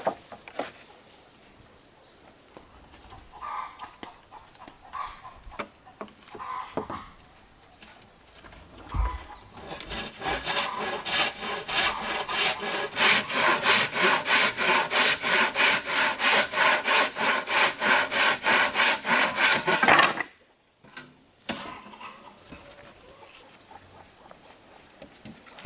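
Wood being hand-sawn in quick, even back-and-forth strokes, about four a second, starting about halfway through and stopping about ten seconds later. A few scattered knocks of wood come before it, and a steady high insect buzz runs underneath.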